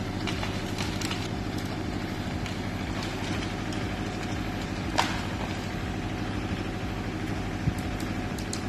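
Heavy vehicle engine running steadily at an even pitch, with a single sharp knock about five seconds in.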